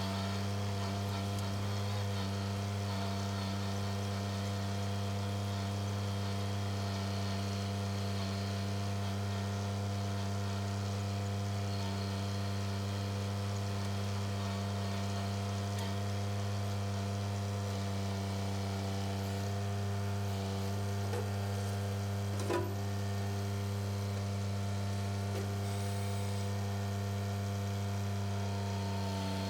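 Compact tractor's diesel engine running at a steady speed: an even, unchanging low hum with overtones, and a single light knock about two-thirds of the way through.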